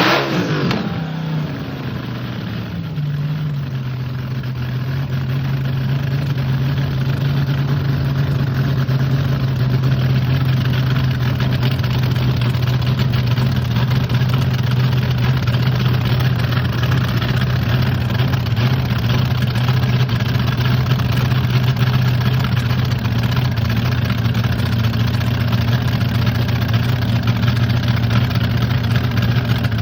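Nitro-fuelled railcar dragster engine idling loudly. Just after firing, its revs fall over the first few seconds, then it holds a steady idle.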